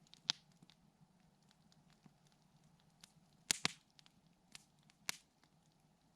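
Campfire crackling, with sharp pops of burning wood: one just after the start, a double pop about three and a half seconds in that is the loudest, and another about five seconds in.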